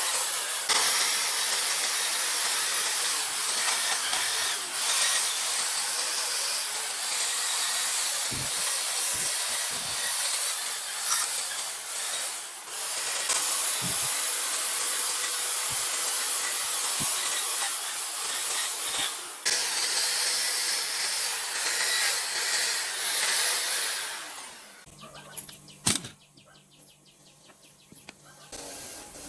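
Steady, loud hissing and rasping of a workshop tool working on old diesel engine parts, cutting off about 24 seconds in. A faint low hum and a single sharp click follow near the end.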